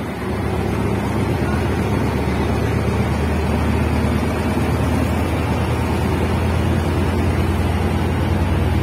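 Diesel-hauled passenger train pulling out, its coaches rolling past close by over the rails with a steady low drone from the departing diesel locomotive. It grows a little louder about a second in.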